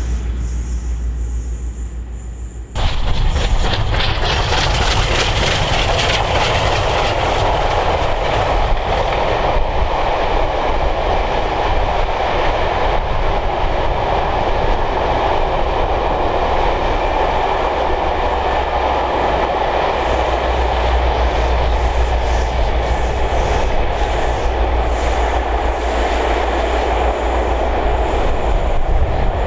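Steam-hauled excursion train passing close by: a steady, loud rolling noise of wheels on rail that starts abruptly about three seconds in, over a low rumble.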